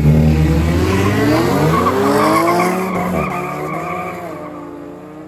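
Drag race cars launching and accelerating hard down the strip. The engine pitch climbs for about three seconds, drops once at a gear change, then climbs again as the sound fades into the distance.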